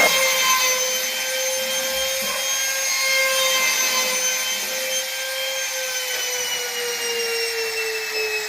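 Electric power tool running steadily with a high motor whine and some rubbing noise from the wood. The pitch sags slightly over the last couple of seconds.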